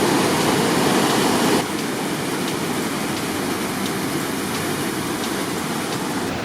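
Whitewater river rapids rushing, a steady roar of water that drops a little in loudness about a second and a half in.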